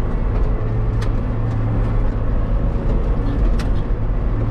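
Tractor engine running steadily while unrolling a hay bale, with a few sharp clicks or rattles over the steady hum.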